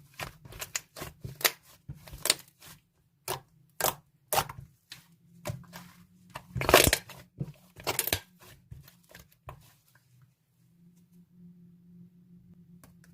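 Slime being squeezed and stretched by hand, giving irregular sharp crackles and pops, loudest about seven seconds in. The crackling dies away about ten seconds in, leaving only a faint low hum.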